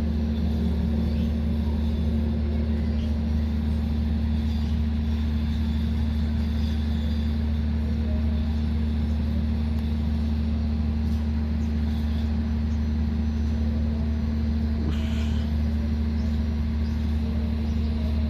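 Steady low drone of an idling diesel locomotive.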